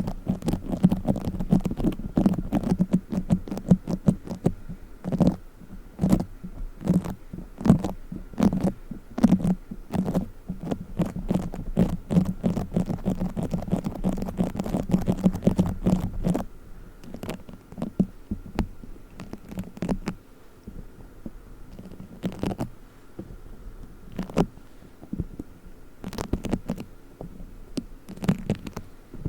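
Play foam being squished and kneaded by hand, giving squelching with crackling pops. It is dense and busy for about the first sixteen seconds, then turns to sparser, quieter crackles.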